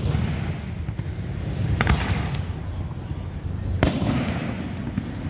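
Fireworks going off: three sharp bangs about two seconds apart, each trailing off, over a constant low rumble.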